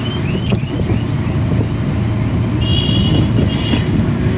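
Heavy rain and street traffic making a dense low rush. A car alarm's repeating rising whoops fade out in the first second, and a steady electronic beep sounds twice briefly about three seconds in.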